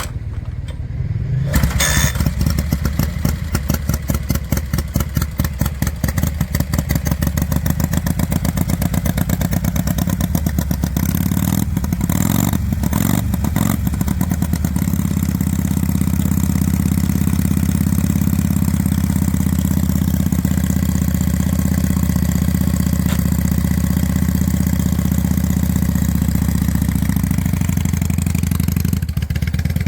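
A classic motorcycle engine starting about two seconds in, then running with each firing beat distinct. A few sharp blips come around twelve seconds, and from about sixteen seconds it settles into a louder, steadier run.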